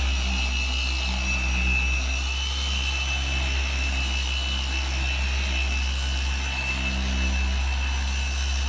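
A small motor running steadily without a break, with a high whine above a low hum.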